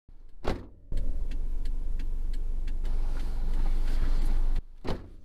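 Car heard from inside the cabin while driving: a steady low rumble with light, regular ticks about three times a second, which cuts off abruptly near the end, followed by a single click.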